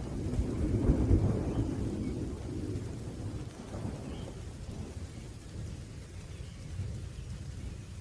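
Rolling thunder rumbling low, loudest about a second in and slowly dying away, over steady rain.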